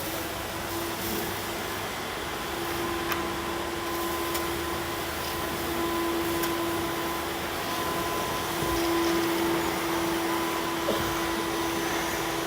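Wood crusher (hammer-mill sawdust machine) running at speed on a test run: a steady whirring hum with a constant tone, and a few light ticks.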